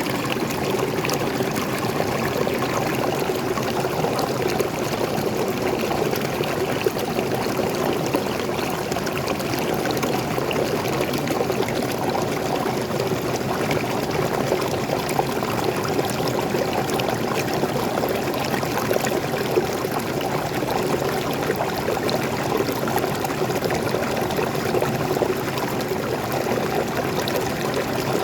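Waterfall pouring and splashing steadily into a stream, an even rushing of water with no let-up.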